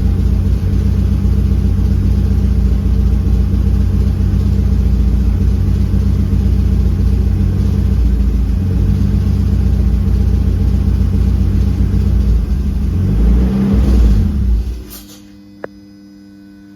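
Turbocharged BMW M52TU 2.8-litre straight-six idling with an uneven low beat that the owner asks about as a rough idle. Near the end it swells briefly, then the engine stops and dies away, leaving a faint steady hum and a single click.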